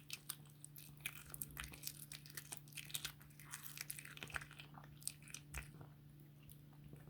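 A cat crunching and gnawing on raw chicken back, the bones cracking in rapid, irregular clicks that thin out near the end. A steady low hum runs underneath.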